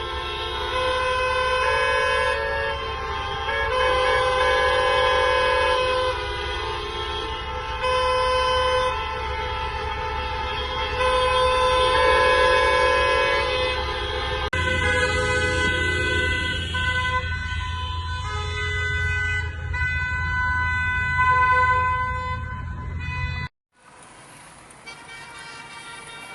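Many car horns honking at once, long overlapping blasts at different pitches, the sound of a street full of drivers sounding their horns together. It cuts off abruptly near the end.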